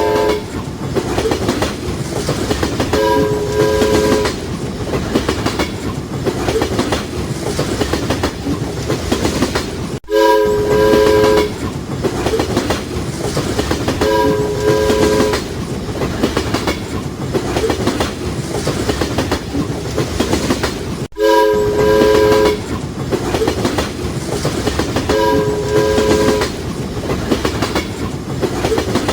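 A train running on the rails, its wheels clacking steadily, with its horn sounding in short blasts every few seconds. The sound breaks off abruptly twice, about 10 and 21 seconds in, where separate recordings are cut together.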